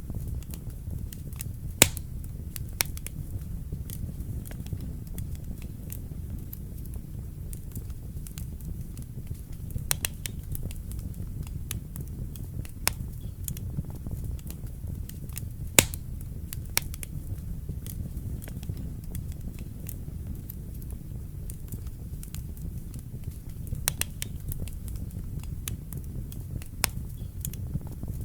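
Wood fire burning in a fireplace: a steady low rumble of flames with irregular crackles and sharp pops of burning logs, a couple of them louder than the rest.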